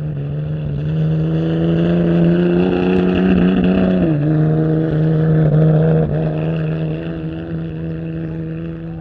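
Ford Ranger pickup truck's engine running hard under load. Its pitch climbs slowly, drops sharply about four seconds in, then holds steady, easing off in loudness near the end.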